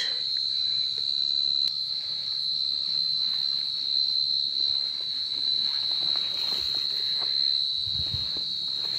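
A field cricket singing at its burrow, close by: one loud, steady, high-pitched trill that doesn't let up.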